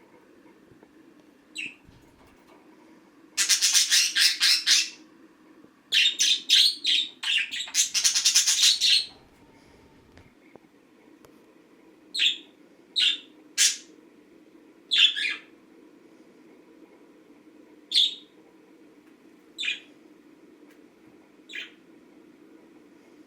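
Pet budgerigar squawking and chattering in two loud runs of rapid calls, then giving single short chirps every second or two. A faint steady low hum runs underneath.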